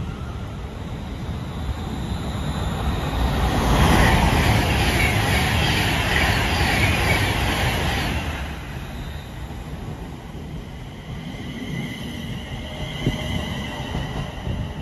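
London Northwestern Railway Class 350 Desiro electric multiple unit running past the platform, its wheels rumbling on the rails. It is loudest about four to eight seconds in, then eases as the rear cab goes by.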